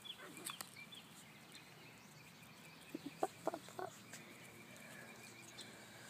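Faint birds chirping, then about three seconds in a quick run of five or so short yips from puppies at play.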